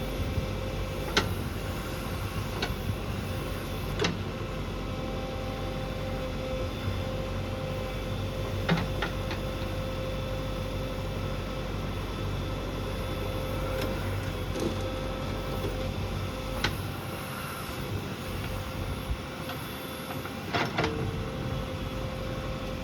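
JCB 3DX backhoe loader's diesel engine running steadily with a constant whine over it, and a few sharp knocks now and then as the machine works.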